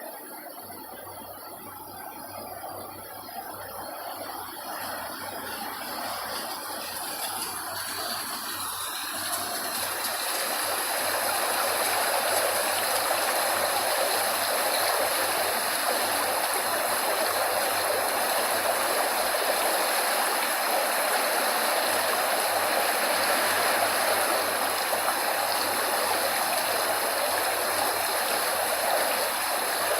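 Steady rushing noise of running water, fading in over roughly the first ten seconds and then holding level.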